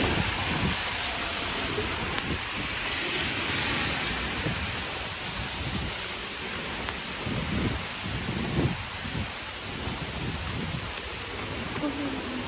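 Typhoon rain and wind: a steady hiss of heavy rain with gusting, irregular low rumbles.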